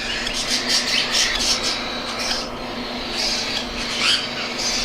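Baby cockatiel chicks giving a rapid run of raspy, hissing food-begging calls, the insistent begging of hungry nestlings that keeps up even right after a feeding.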